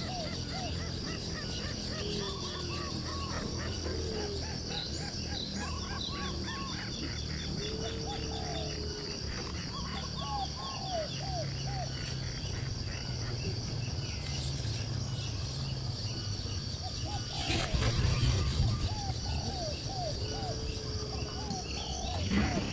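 Many small birds chirping and calling in short, repeated notes over a steady high insect drone, with a loud rustling burst a little past the middle.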